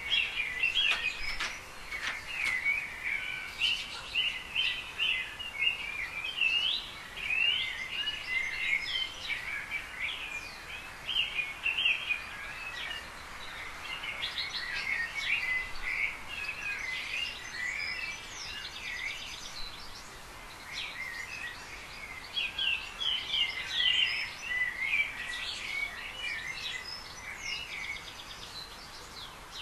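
Birds chirping and singing continuously in a dense run of short, quick chirps over faint background noise.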